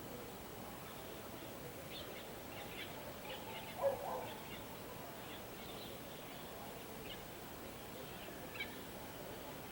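Faint, scattered chirping of small birds, with one short, louder, lower call about four seconds in.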